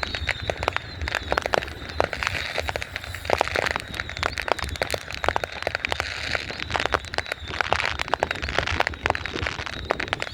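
Fireworks going off in a dense, continuous run of crackles and sharp bangs, with a faint steady high tone underneath.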